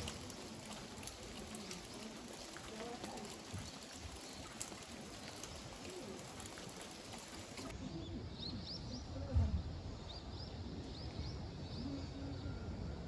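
Outdoor ambience: a steady hiss with scattered clicks, then, after a cut about eight seconds in, birds calling with short rising chirps, several in a row.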